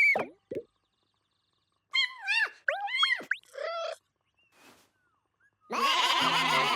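Cartoon cat character's wordless, wavering calls with quick rising glides, about two seconds in and lasting a second and a half, after a short falling whistle glide at the start. Music comes back in near the end.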